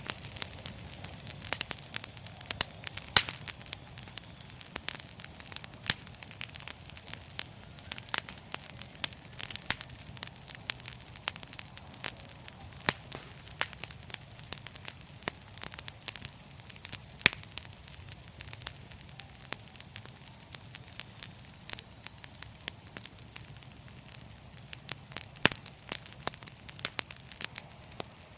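Wood fire crackling steadily, with frequent sharp, irregular pops and snaps over a low rumble of the flames.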